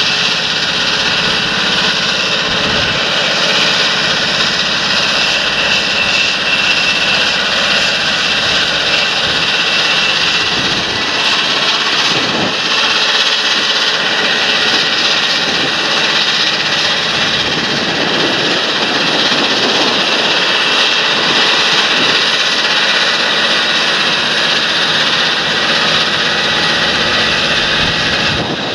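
Large John Deere tractor running steadily in the field, a continuous loud engine and machinery noise with a strong high hiss.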